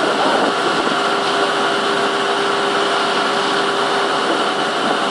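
Heavy machinery running steadily and loudly, an even mechanical noise with a constant mid-pitched tone through it.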